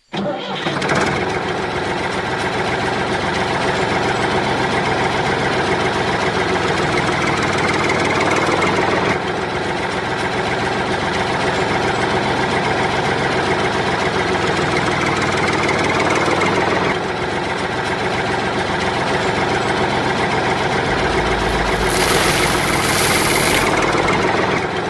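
Small engine of a home-built mini tractor running steadily. A burst of hiss is heard near the end.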